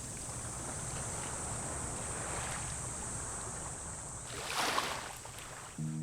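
Sea waves washing on the shore with wind on the microphone, one wave surging in louder about four and a half seconds in. Music starts right at the end.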